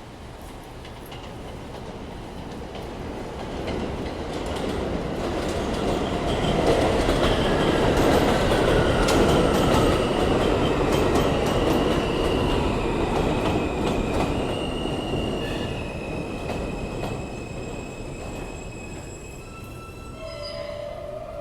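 New York subway train on the BMT Jamaica Line, rumbling on the rails as it grows louder, peaks and eases off. High wheel and brake squeals sound through the middle and second half, with a lower squeal near the end as it slows.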